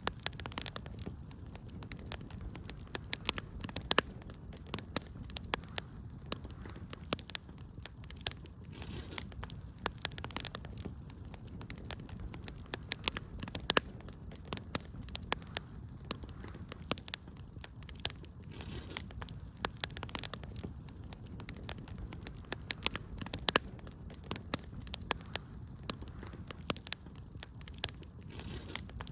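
Wood fire crackling, with frequent irregular sharp snaps and pops over a steady low hiss.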